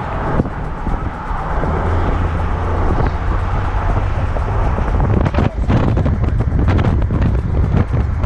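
A car driving: steady low road and engine rumble, with wind gusting against the microphone in short bursts over the second half.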